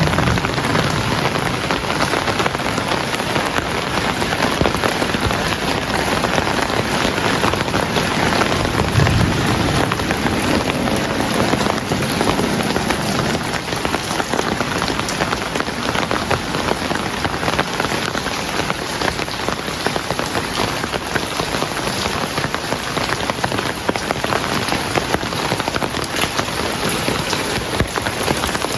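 Heavy rain falling steadily, a dense even hiss of drops on surfaces, with a brief low rumble about nine seconds in.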